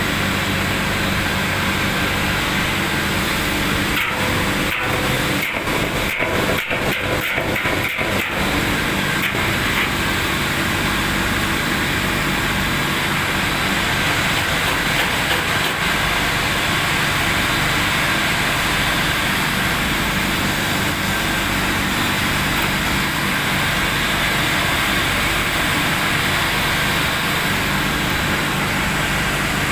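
Pyrolysis furnace running with a steady mechanical drone and low hum, briefly fluttering unevenly between about four and eight seconds in.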